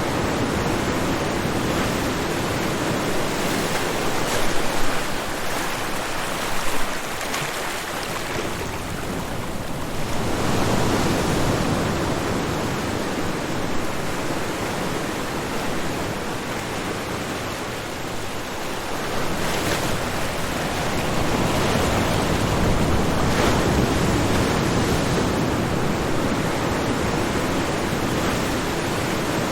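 Ocean surf washing onto a shoreline, a continuous rushing of water that eases and swells again as each wave comes in, about ten seconds in and again near twenty seconds.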